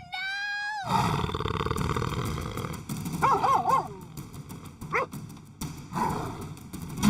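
Animal growls and cries from a cartoon struggle between a dog and a cougar: a drawn-out cry at the start, then a long rough growl, then a few short wavering yelps and one brief cry.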